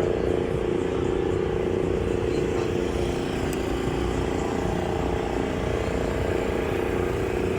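A steady engine drone: an unchanging hum over a low rumble that does not rise or fall.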